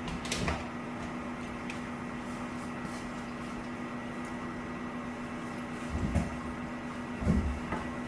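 Garbage truck running with a steady mechanical hum, with a few dull low thumps about six and seven seconds in.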